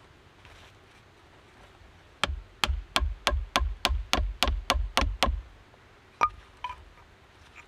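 A quick run of about eleven hard knocks, about three a second, then a single knock a second later: something solid being struck repeatedly, like wood being hit.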